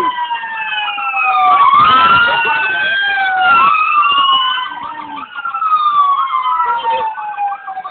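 Several police car sirens wailing at once, their pitches sweeping slowly down and up out of step with each other, loud and close.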